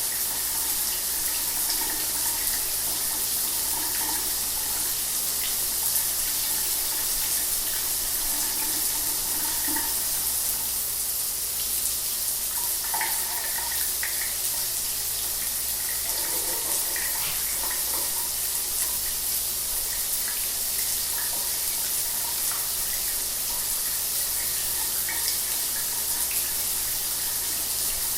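Shower water running steadily: an even hiss of spray with small splashes, and a low steady hum beneath.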